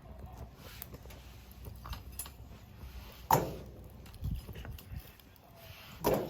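Two sharp knocks with a brief ring, about three seconds apart, the first the louder, amid small crackles and handling noises at a homemade stainless-steel bowl wood-burning fire pit.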